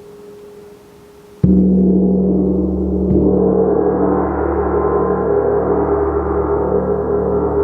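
A gong is struck hard about a second and a half in, after a faint fading ring, and sounds loudly with deep steady tones; over the next couple of seconds the sound swells and grows brighter as the gong blooms.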